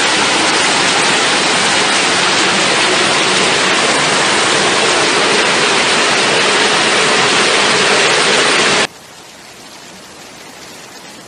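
Torrential tropical rain pouring down onto a flooded street: a loud, steady hiss of water. About nine seconds in it cuts off abruptly to a much quieter rush of rain and running water.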